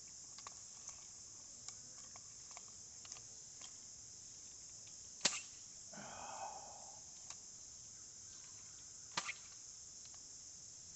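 Steady high-pitched insect chorus, like crickets, with scattered faint clicks. Two sharp louder clicks, about five and about nine seconds in, and a short burst of rustling noise around six seconds.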